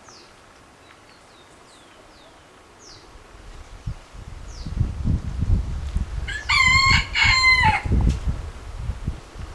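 A rooster crowing once, a loud call of about a second and a half with a brief break in the middle, falling in pitch at the end. Before it come faint, short, falling chirps of small birds, and from about halfway through a low rumbling noise runs underneath.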